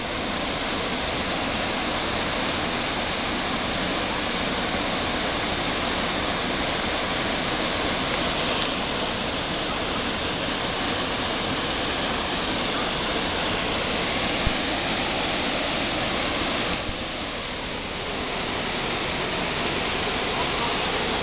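Waterfall rushing: a steady noise of falling water that softens briefly about seventeen seconds in.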